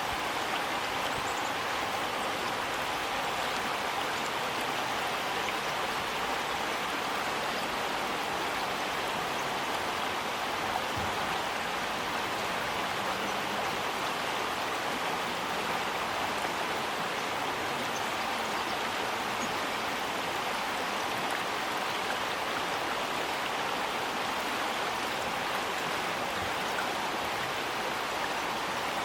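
River water flowing and rushing below a bridge: a steady, even rush of moving water.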